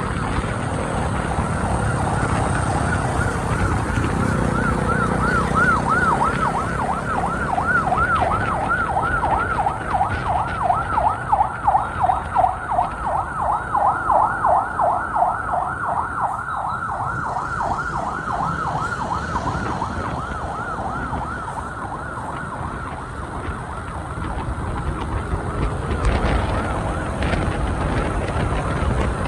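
Emergency vehicle siren in a fast yelp, its pitch swinging up and down a few times a second. It grows louder toward the middle and fades out near the end, over the steady rumble of motorbike and street traffic.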